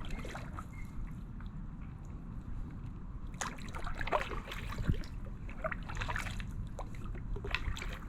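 Kayak paddle dipping and dripping in calm water: a run of short splashy strokes from about three and a half seconds in, over a steady low rumble.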